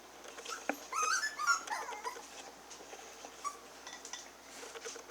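Havanese puppy whining softly: a few high, thin whimpers that rise and then fall about a second in.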